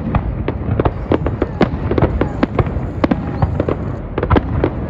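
Fireworks display going off: a rapid, irregular run of bangs and crackling pops, several a second, over a low rumble.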